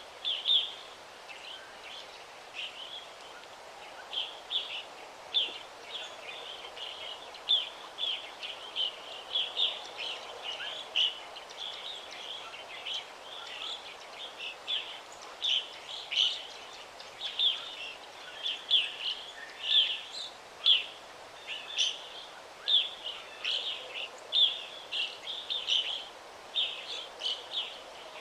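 Songbirds chirping in a forest: many short high chirps, several a second, over a faint steady background hiss.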